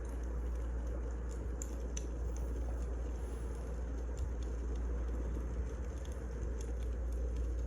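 Burning firewood crackling, with scattered small sharp pops over a steady low rumble.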